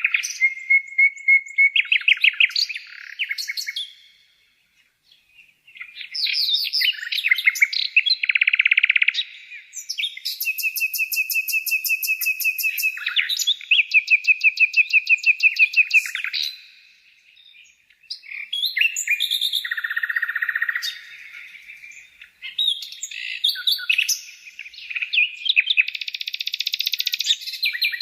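A songbird singing a varied song of fast trills and chirp series, in phrases broken by short pauses about four seconds in and again near the middle.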